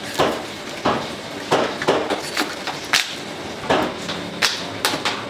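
A cleaver chopping on a wooden cutting board, about ten sharp strikes in five seconds, unevenly spaced.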